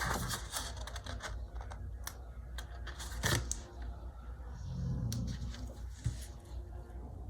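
Light paper and sticker-sheet handling: scattered small taps, clicks and rustles as planner stickers are peeled and placed on the page.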